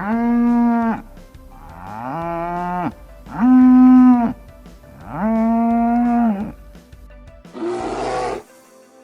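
Cattle mooing: four calls of about a second each, each held on a steady pitch, then a fifth, harsher call near the end.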